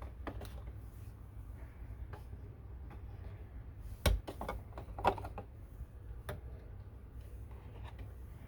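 Light clicks and taps from small hard objects being handled, with two louder knocks about four and five seconds in, over a low steady hum.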